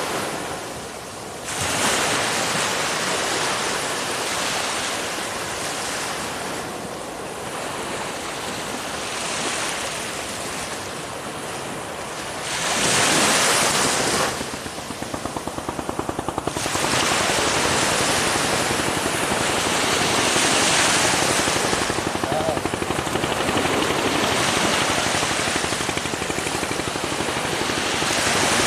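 Ocean surf: waves washing in and swelling, with one louder surge about halfway through. After that a rapid, even fluttering rattle runs under the surf.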